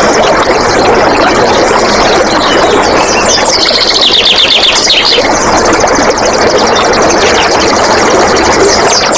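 Flowing water making a loud, steady rush, with wild birds calling over it in quick series of short, downward-sweeping notes, busiest a few seconds in and again at the end.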